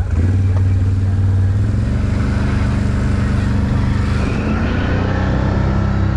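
Off-road ATV engine running steadily close by. From about two seconds in, a fainter, higher whine rises in pitch and then levels off.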